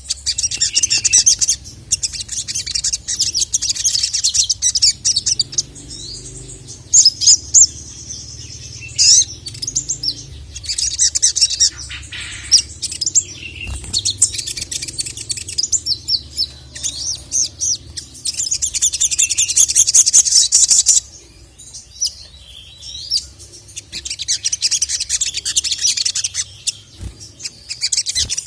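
Sogon (sogok ontong), a small nectar-feeding songbird, singing vigorously in bouts of rapid, very high-pitched chirps and trills, with short pauses between the bouts. A faint low steady hum lies underneath.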